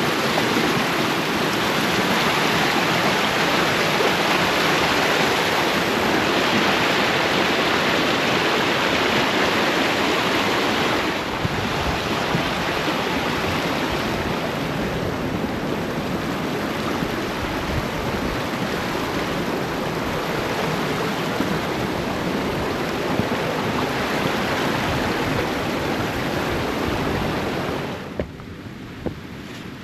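Rushing water of a hill stream, a loud steady rush. It eases a little partway through and drops off sharply near the end.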